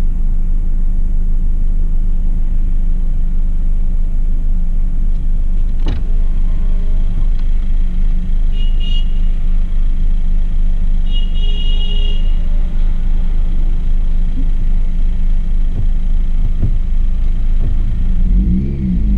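Honda Civic Type R FN2's 2.0-litre i-VTEC four-cylinder idling steadily, heard from inside the cabin, running a 3-inch exhaust with the HKS induction kit removed. Near the end the revs rise as the car pulls away.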